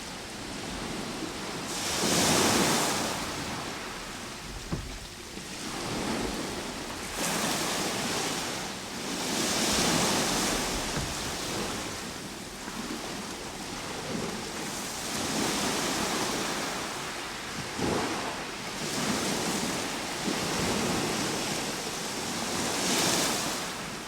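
Ocean waves breaking on a shore: surges of surf that build and fade about every three to six seconds.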